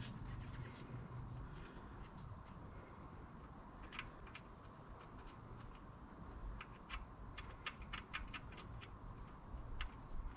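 Faint scattered clicks and light metallic ticks as water pump bolts are handled and threaded in by hand, with a cluster of quick ticks in the second half.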